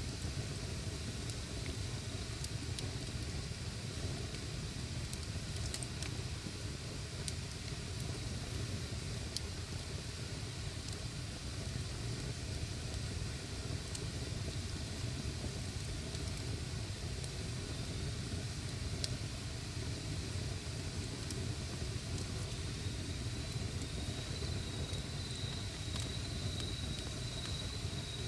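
Wood campfire burning: scattered sharp crackles and pops over a steady low rumble. Near the end a faint, thin, high steady tone joins in.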